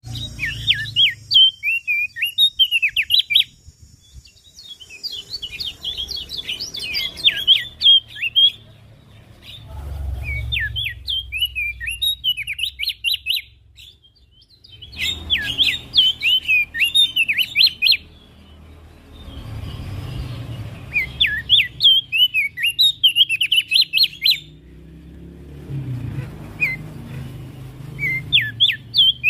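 Javan grey-throated white-eye (opior jambul) singing: phrases of rapid, chirpy notes a few seconds long, repeated with short pauses between them, over a low background rumble.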